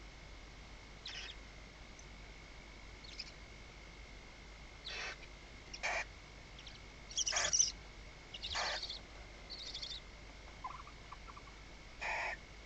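Barn owls in a nest box giving short, raspy hissing calls, about eight scattered at irregular intervals, over a faint steady high-pitched whine.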